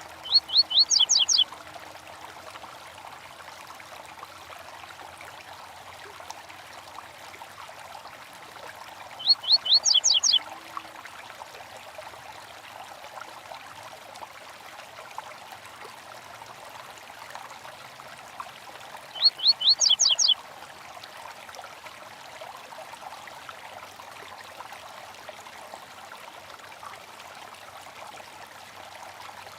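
A small stream trickling steadily, with a songbird's short phrase of about seven rapid, high chirps heard three times, about ten seconds apart, each the same and each about a second long.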